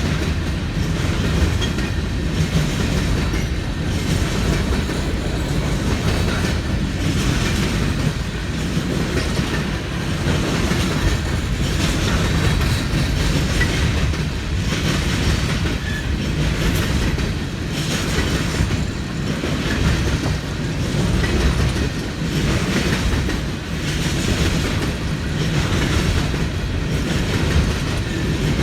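CSX freight train rolling past at steady speed, its wheels clacking over rail joints in a continuous rhythm over a rumbling roar.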